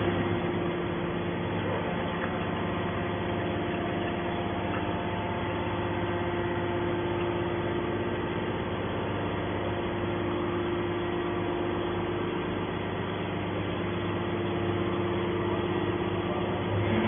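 Hydraulic power unit of a scrap metal baler running, a steady hum with a constant whine.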